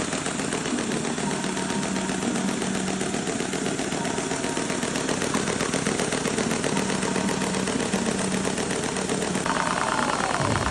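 Lego model engine running with a fast, steady clatter of many rapid ticks. A tone sweeps downward just before the end.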